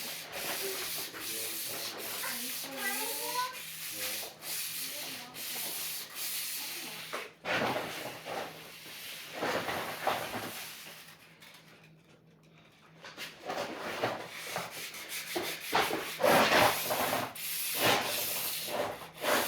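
Sword blade being sharpened with rhythmic back-and-forth rasping strokes, about two a second, with a short pause about twelve seconds in before the strokes resume.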